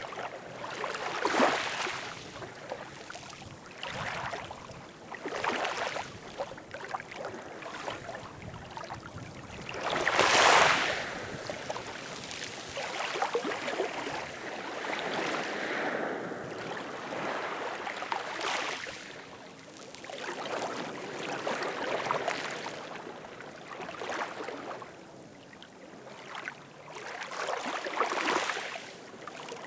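Ocean waves washing ashore in repeated surges of hiss every couple of seconds, one wave much louder about ten seconds in.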